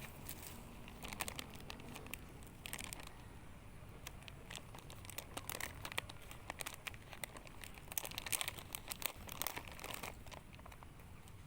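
Field-ration food packaging being handled and opened, crinkling in several bursts of crackles.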